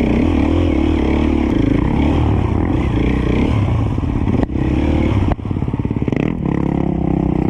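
Dirt bike engine revving unevenly, its pitch rising and falling, with two sharp knocks about four and a half and five and a half seconds in.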